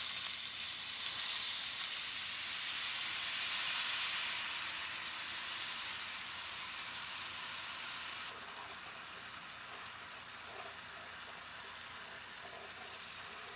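Water poured into a hot pan of flour roux, sizzling loudly as it hits. About eight seconds in the sizzle drops suddenly to a quieter, steady sizzle as the gravy starts to simmer.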